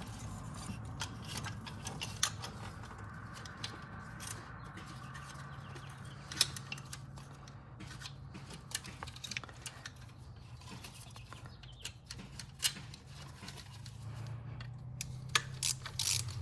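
Scattered light metallic clicks and clinks of hand tools and parts being handled while the high-pressure fuel line is fitted, over a steady low hum.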